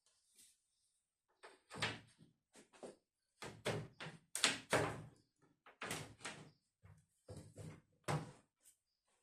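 An irregular series of sharp knocks and clacks, hard objects being handled, bumped together and set down, with short silences between.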